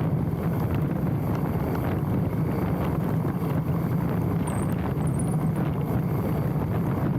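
Mountain bike rolling fast down a dirt trail: tyre roar and steady rattling of the bike over the rough ground, with wind buffeting the handlebar-mounted microphone.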